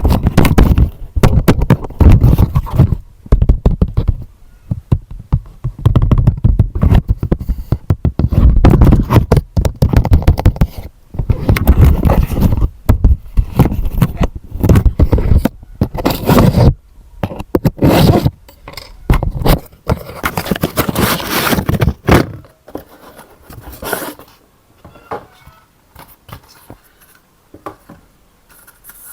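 Close, loud scraping and knocking of objects being handled, dense and irregular, thinning out to a few quieter clicks about twenty-two seconds in.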